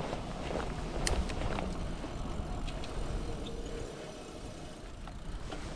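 Nylon rain pants crunching in time with the rider's pedalling legs while cycling, over rolling tyre noise. A thin, pulsing, very high-pitched squeal sounds for about two seconds mid-way.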